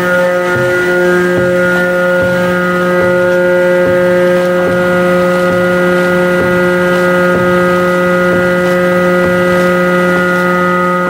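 A ship's diesel engine machinery running steadily: a loud, even hum with several fixed tones and faint regular ticking.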